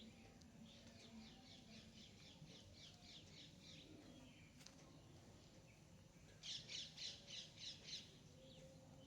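Birds calling: a faint, fast run of high repeated notes for a few seconds, then a louder burst of about seven rapid, harsh notes a little after the middle.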